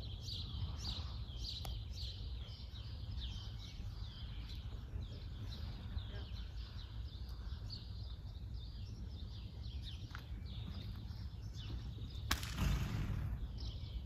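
Small birds chirping, many short falling chirps several a second, over a steady low rumble. A sudden thump with a short rustle about twelve seconds in is the loudest moment.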